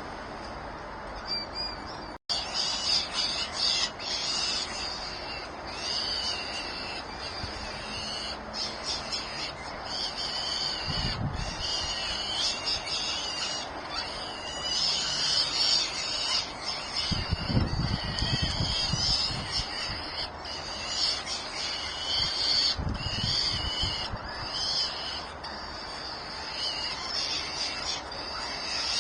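Nestling birds in the nest giving continuous, rapidly repeated high-pitched begging calls for food, after a brief dropout about two seconds in. A few dull thumps from birds moving in the nest come around the middle.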